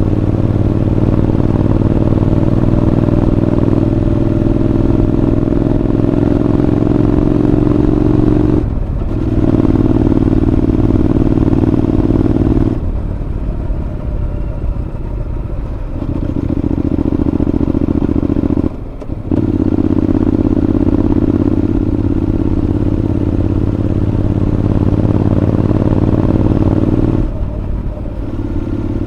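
Honda NC750X parallel-twin engine running through a Moriwaki aftermarket muffler while the bike is ridden. The engine pulls with a steady note that cuts out briefly twice. It eases to a quieter note for a few seconds near the middle and again near the end.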